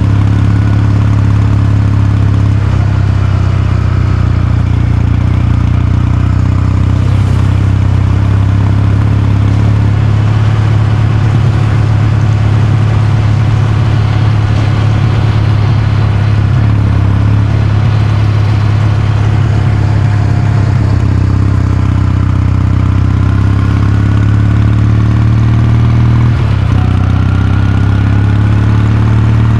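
Kawasaki Meguro K3's air-cooled parallel-twin engine running with its exhaust note, holding a fairly steady engine speed with small shifts and a brief dip near the end.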